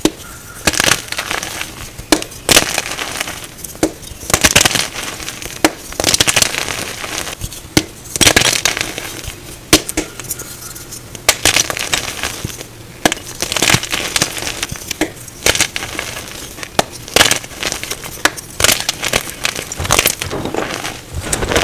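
Reformed gym chalk blocks being crushed: a long run of sharp, irregular crunches and crumbling, with the loudest cracks coming every second or two.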